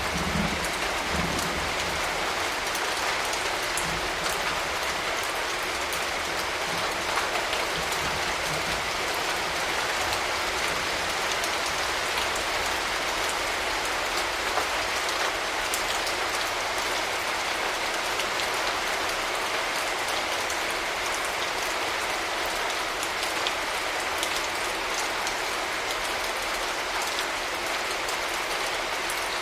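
Steady rain falling, an even hiss of many drops, with the tail of a low thunder rumble fading out in the first second or so.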